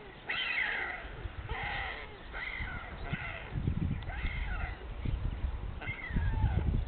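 White stork nestlings giving repeated mewing begging calls, about one to two a second, with a low rumble underneath that swells twice.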